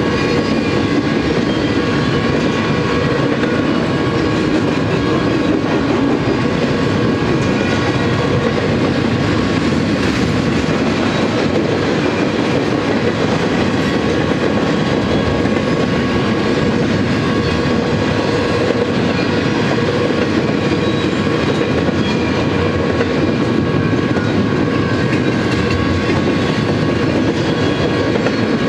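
Double-stack container cars of a BNSF freight train rolling past at a grade crossing: a steady rumble of wheels on rail with clickety-clack over the rail joints and a few faint, steady high-pitched tones on top.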